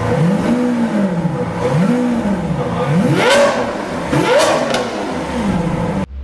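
Lamborghini Aventador LP700-4's 6.5-litre V12 revved in four quick throttle blips, each rising and falling in pitch, the last two higher than the first two. The sound cuts off suddenly near the end.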